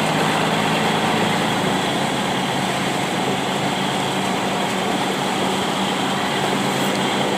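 Heavy rain beating on a moving vehicle, a steady hiss, with the engine's low steady hum underneath.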